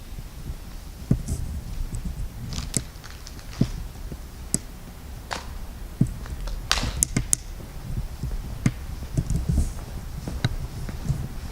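Irregular footsteps crunching and knocking on a debris-strewn floor, with scattered sharp clicks about once a second over a low steady rumble.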